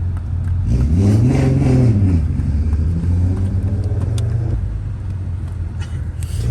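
Car engine running under way. About a second in, its pitch rises and falls once, then it settles into a steady drone.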